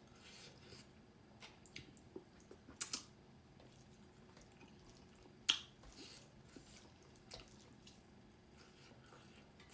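Close-up eating sounds: sharp wet mouth clicks and smacks, the loudest about three and five and a half seconds in, between fainter ticks while chewing.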